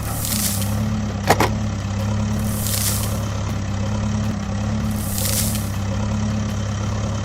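Heavy vehicle engine running steadily at idle, with a hiss about every two and a half seconds and one sharp click a little over a second in.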